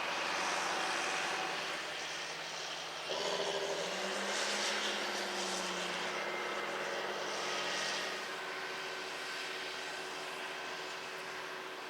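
Tractor engine running steadily. About three seconds in, a louder engine note cuts in and rises slightly in pitch.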